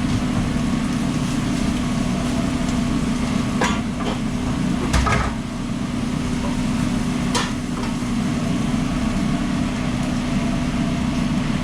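Steady low mechanical hum of the food truck's running equipment, with a few sharp clanks of kitchen utensils and pans, three of them close together near the middle.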